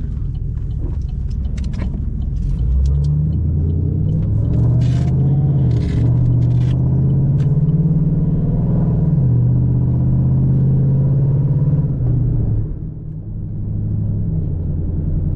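Straight-piped 2010 Chevrolet Camaro SS's 6.2-litre V8, heard from inside the cabin: a steady low exhaust drone that rises in pitch and grows louder about three seconds in, holds for about nine seconds, dips briefly near the thirteen-second mark, then settles back to a lower note.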